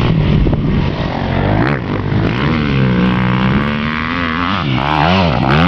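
KTM 250 SX-F single-cylinder four-stroke motocross engine revving under throttle, its pitch repeatedly rising and falling as the rider rolls on and off. It settles briefly, then gives several quick throttle blips near the end.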